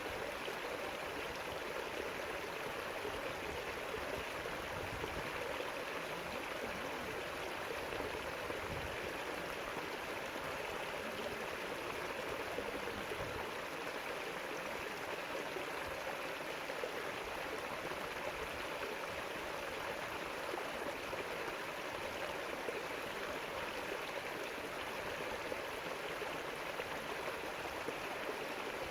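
River water flowing steadily over rocks, an even rushing with a gurgle in it.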